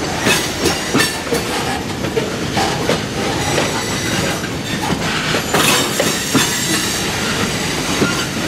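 Freight boxcars being shoved along an industrial spur track: steel wheels clacking over the rail joints, with irregular knocks and clanks and a thin, high wheel squeal.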